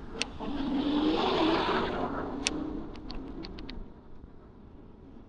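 A car passing close by, its engine and tyre noise swelling and then fading over about two seconds, followed by a quick run of sharp clicks.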